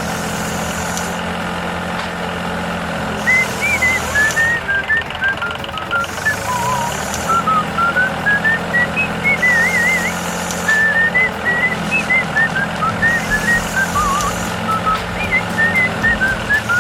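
Steady low engine-like hum, with a run of short high whistled notes, some of them trilled, wandering up and down over it from about three seconds in. A soft high hiss swells and fades about every two seconds.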